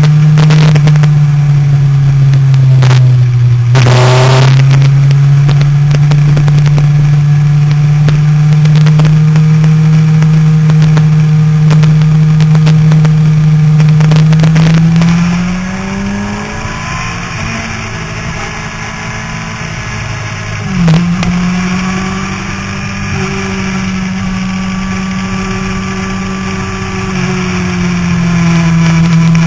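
Motorcycle engine running hard at steady revs on a racetrack, with wind noise over the camera. The note dips briefly early on. About halfway through it goes quieter and changes pitch, and a few seconds later there is a short sharp knock.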